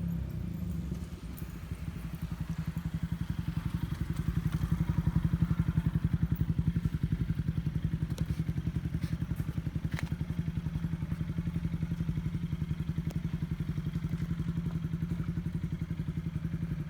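MV Agusta Brutale 1090 RR's 1078 cc inline-four engine idling with an even, rapid pulsing beat.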